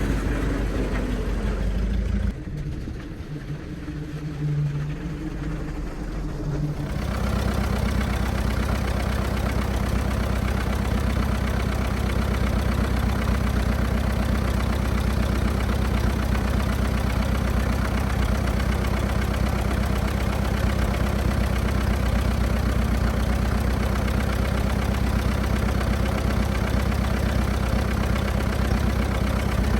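1924 Fordson F tractor's four-cylinder engine idling steadily. Its sound drops and changes for a few seconds a couple of seconds in, then settles back to a steady idle.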